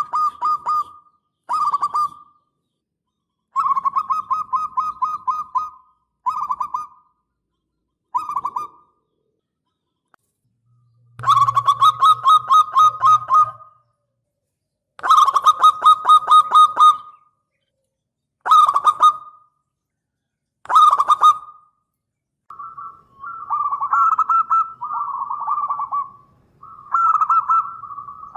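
Zebra dove (perkutut) cooing. It sings short phrases of quick staccato notes, repeated about a dozen times with pauses between. Near the end the phrases run together into longer, more wavering cooing.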